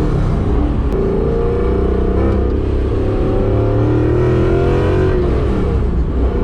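Supercharged BMW S62 4.9-litre V8 with a straight-piped exhaust pulling hard under acceleration. Its pitch rises steadily through a gear, drops at a gear change about five seconds in, then climbs again.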